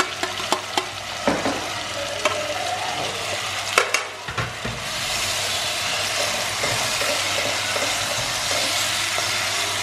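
Chicken pieces sizzling as they go into a hot cast-iron pot of sautéed onion, carrot and garlic, with sharp clacks of metal tongs against the pot over the first few seconds. From about five seconds in, a steady frying sizzle as the chicken is stirred with a wooden spatula.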